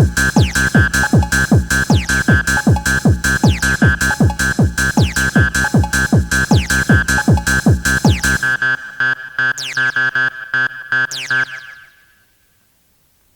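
Fast hardcore techno: a pounding kick drum at about two and a half beats a second under a repeating high synth riff. The kick drops out about eight seconds in, the synth runs on alone for a few seconds, then the music cuts off near the end.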